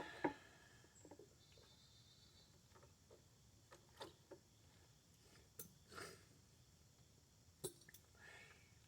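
Near silence broken by a few faint, scattered clicks and knocks of hand work on the mower, about seven in all.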